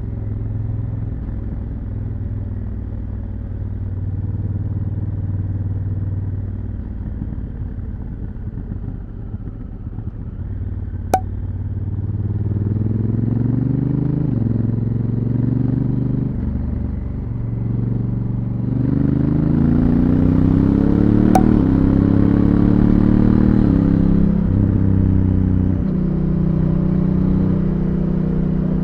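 Honda Africa Twin CRF1000L's parallel-twin engine on its stock exhaust: running fairly steadily at first, then accelerating from about ten seconds in, its pitch climbing and dropping suddenly at each DCT gear change, several times. Two short sharp clicks, about eleven seconds in and again about ten seconds later.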